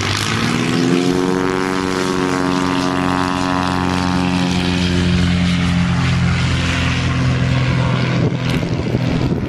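Pitts biplane's propeller engine going to full power for takeoff: its note climbs sharply at the start, then holds as a steady loud drone, with some rough crackling noise near the end.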